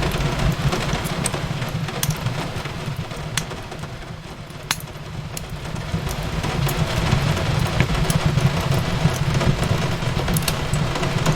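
Wood fire crackling, with scattered sharp pops over a steady low rumble and the hiss of rain on a window; it eases a little in the middle before building again.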